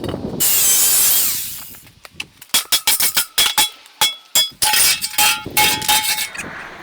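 Metal workshop sounds: a loud burst of a power tool that winds down, falling in pitch, then an irregular run of sharp metallic strikes and clinks, several of them ringing.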